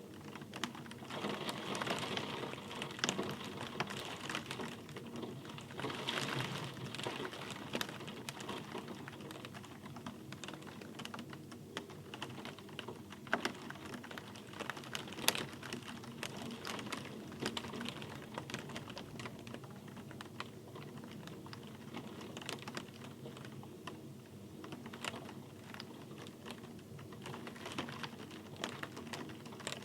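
Rain falling, with many irregular close drops tapping sharply on a hard surface over a steady hiss. The rain swells briefly twice in the first several seconds.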